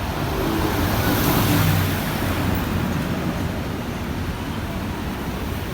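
Scania K230UB bus engine running with road and traffic noise, the engine hum swelling slightly about a second in.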